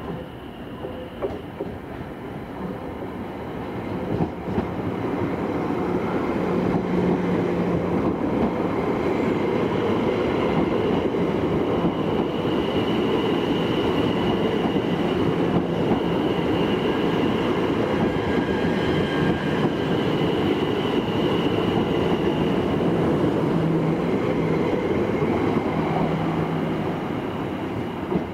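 Electric multiple-unit passenger train moving past on the rails: the rumble builds about four seconds in and stays loud and steady, with a high whine above it, easing off near the end.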